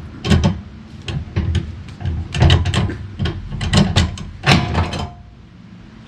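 A series of irregular knocks and clanks, about a dozen in five seconds and stopping about five seconds in, over a steady low hum.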